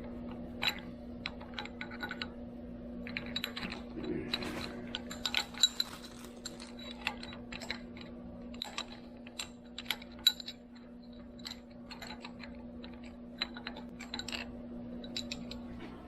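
Irregular light metallic clicks and clinks of hand tools and metal parts being handled during the teardown of a Bridgeport milling machine, over a steady low hum.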